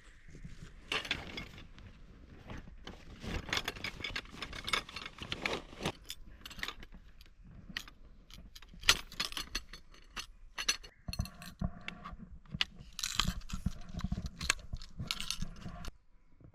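Metal camping gear being handled while a tent is pitched: irregular clinking and jangling with rustling and scraping, and one sharp knock about nine seconds in.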